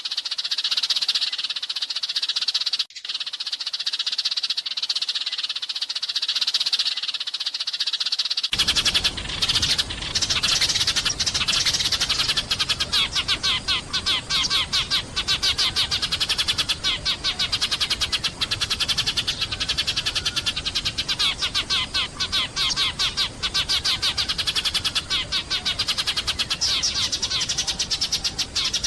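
Flock of sparrows chirping in a dense, rapid, continuous chatter. About a third of the way in the recording changes abruptly: a steady rushing noise comes in underneath, and the chirps turn into quick repeated strings.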